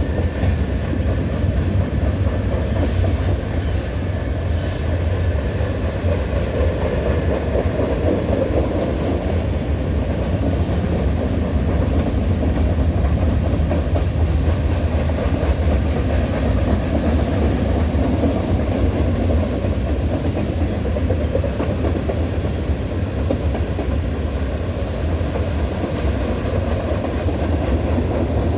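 Freight cars of a long Norfolk Southern manifest train rolling past, a steady rumble of wheels on rail.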